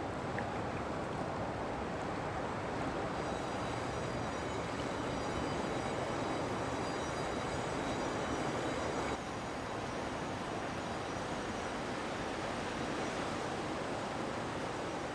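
Broken harbor ice grinding and rushing against itself as a lake freighter pushes through it: a steady, dense wash of noise with faint high squeaks, dropping slightly about nine seconds in.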